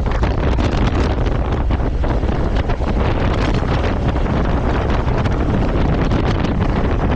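Heavy wind buffeting the microphone while riding a motorcycle: a loud, steady rumbling rush that drowns out everything else.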